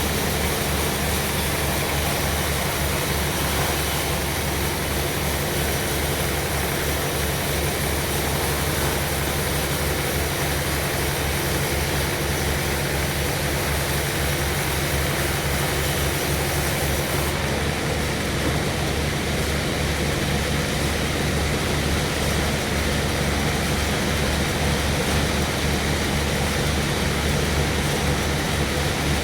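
Sawmill machinery running steadily with a low engine throb; a high hiss over it drops away a little past halfway.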